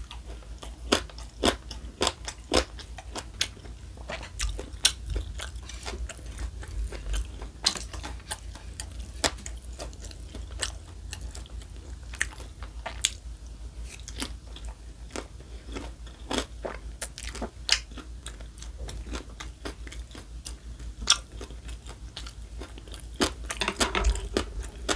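A person chewing and biting into fried dumplings, with many sharp, irregular crunches.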